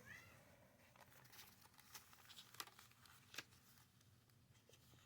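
Faint rustling and soft ticks of paper as the pages of a handmade junk journal are turned, with two slightly sharper clicks a little past the middle.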